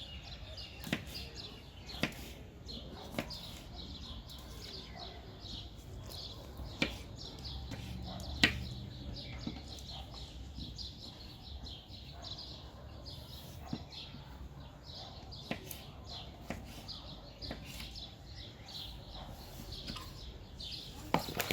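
Folding knife slicing a pepper into thin slices, heard as a scattering of irregular sharp taps of the blade. Small birds chirp over it in quick repeated calls.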